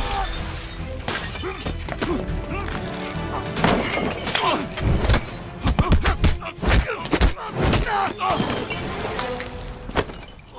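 Music playing over a rapid series of crashes and breaking glass, with voices crying out between the impacts.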